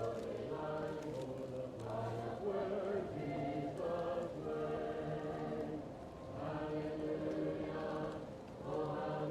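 Choir singing slow, held chords, muffled as if heard from another room, the phrases swelling and pausing every second or two. Faint crackling from a fireplace sits underneath.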